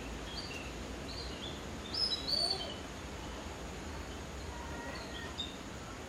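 Birds giving short, high chirps over a steady background hiss, with a louder cluster of chirps about two seconds in and a few fainter ones near the end.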